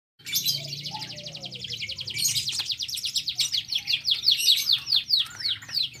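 A bird's long, fast trill of short downward-sweeping chirps. It starts again about two seconds in and slows to a few chirps a second near the end.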